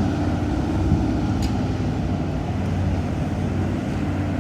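An engine droning steadily at a constant low pitch, with an even hiss over it.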